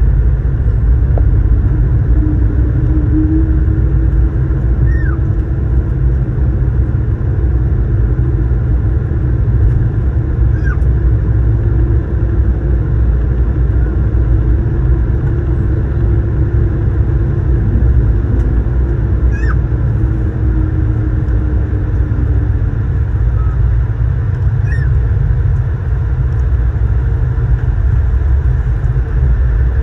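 Steady low rumble of an Airbus A220-300's engines and airflow heard from inside the cabin, with a faint steady hum and a few short, faint chirps several seconds apart.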